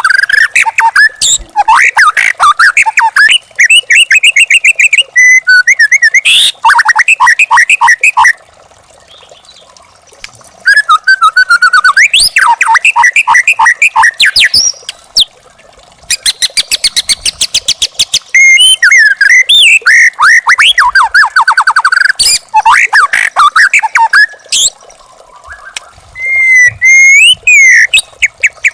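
Young wild white-rumped shama (murai batu) singing: loud phrases of rapid repeated whistled notes and trills, broken by pauses of a second or two, over a faint steady background hum.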